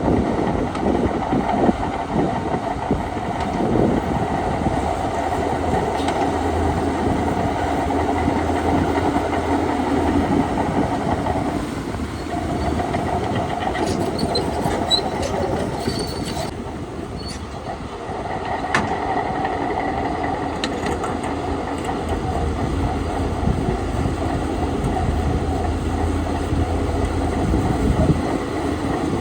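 Crawler bulldozer at work: its diesel engine runs under load while the steel tracks clank and rattle, easing off briefly about twelve and again about seventeen seconds in.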